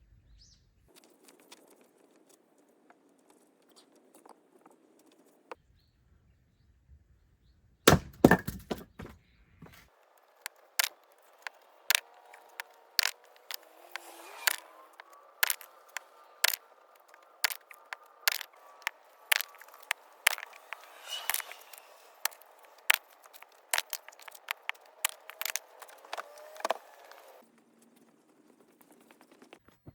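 Oak firewood cracking: a few heavy knocks about eight seconds in, then a long run of sharp cracks and pops, one or two a second, over a faint whistling hiss, which stops shortly before the end.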